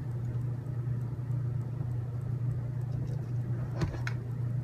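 A steady low background hum, with two light clicks a little before the end as small kit parts are handled.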